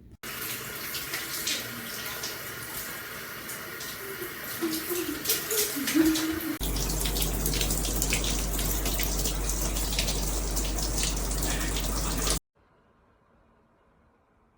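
Water spraying from a handheld shower head: a steady hiss with spattering. The sound changes abruptly about halfway through and stops suddenly near the end.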